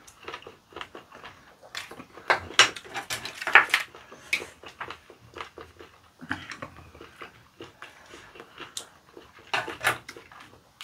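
Close-miked chewing and lip-smacking of chewy raw squid sashimi: an irregular string of wet smacks and clicks, loudest about two to four seconds in and again near the end.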